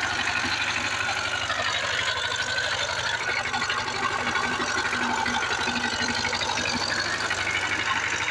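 Power tiller's diesel engine running steadily, with a fast, even knock.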